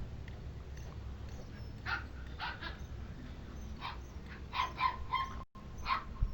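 Short animal calls, several in quick succession from about two seconds in, over a steady low rumble.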